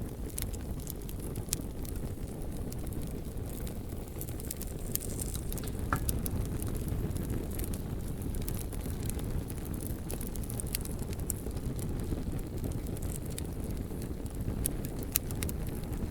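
Campfire crackling, with frequent sharp pops and snaps scattered throughout over a steady low rumble.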